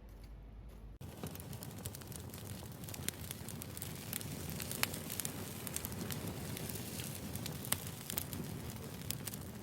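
Steady crackling noise with many scattered sharp pops, starting abruptly about a second in.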